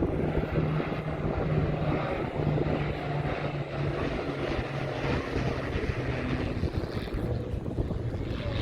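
Propeller aircraft engine droning steadily in flight, its note dropping in pitch about seven seconds in, with some wind on the microphone.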